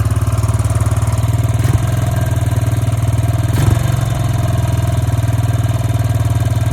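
2002 Honda Rancher ES ATV's single-cylinder four-stroke engine idling steadily, a little fast, with a short clunk a few seconds in.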